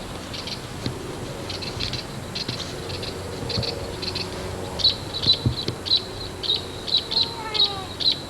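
Insects chirping outdoors, a steady run of short high chirps that grows louder and more regular partway through, at about three chirps a second, with a brief falling call near the end.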